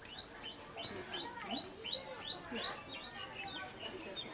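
A bird calling: a rapid series of about ten short whistled notes, each sweeping upward in pitch, roughly three a second, then a few shorter notes near the end.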